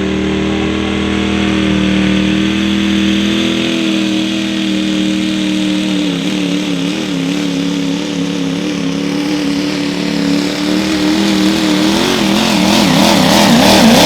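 Turbocharged diesel pickup truck engine running hard at high, held revs under the load of a pulling sled. About halfway through, the pitch starts wavering up and down, and it grows louder toward the end.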